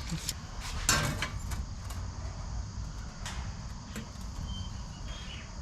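A few sharp knocks and scrapes of sheet metal being handled and marked out for a fold, the loudest about a second in, over a steady low hum.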